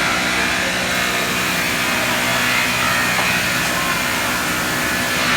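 Sawmill saw machinery running steadily while sawing wood, an even mechanical drone with constant tones under it.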